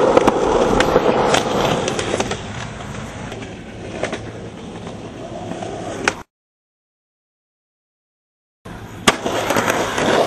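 Skateboard rolling, loudest at first and fading over the first few seconds, with several sharp clacks of the board. The sound cuts out completely for about two seconds past the middle, then rolling and a sharp clack return.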